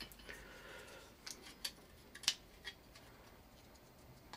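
Plastic tombstone lamp holder being fitted into the slot of a fluorescent fixture's metal end bar: a brief scraping slide, then a few light plastic clicks, the loudest a little past two seconds in.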